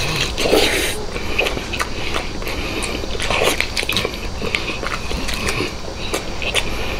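Close-miked eating: a man gnawing and tearing braised meat off a bone, chewing with many short wet clicks and smacks.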